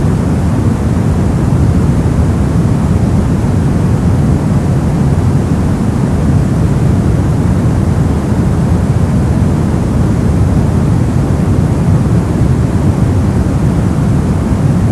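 Brown noise: a steady, deep, rumbling hiss with its energy mostly in the bass, unchanging throughout.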